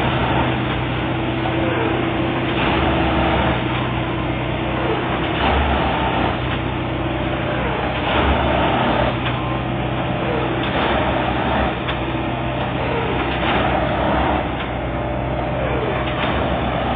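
Plasser & Theurer 09-32 CSM Duomatic track-tamping machine at work: its diesel engine runs steadily while the tamping cycle repeats roughly every two and a half to three seconds, the tamping units working the ballast and the machine moving on to the next sleepers.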